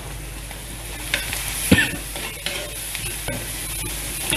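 Onions, green chillies and curry leaves frying in coconut oil in an earthenware pot while being stirred with a spoon. A steady sizzle runs under scattered scrapes and knocks of the spoon against the clay pot, with one louder knock about two seconds in.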